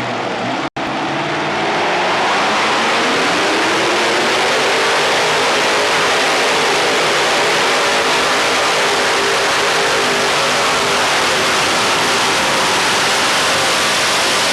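Modified pulling tractor's engines at full power under load during a pull: a loud, dense engine sound whose pitch climbs over the first few seconds and then holds steady. The sound drops out for an instant under a second in.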